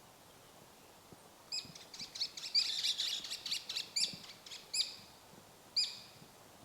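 A small songbird chirping: a run of short, high chirps that come thick and fast near the middle, then a few spaced single chirps near the end.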